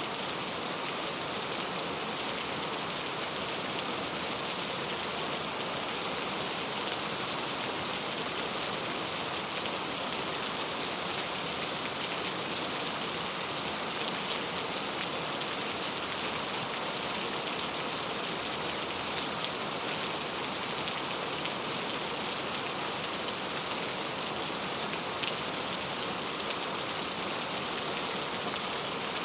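Steady gentle rain: an even hiss with scattered individual drop ticks.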